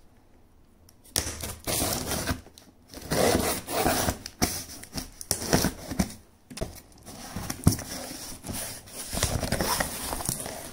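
Packaging being handled and unwrapped by hand: irregular rustling, crinkling and tearing, with small scrapes and knocks, starting about a second in.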